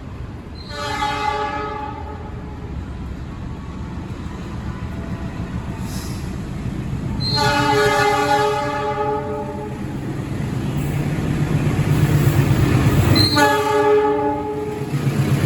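Diesel locomotive of the Argo Bromo Anggrek express train sounding its horn three times, each blast one to two seconds long. Between the blasts the train's low rumble grows louder as it approaches.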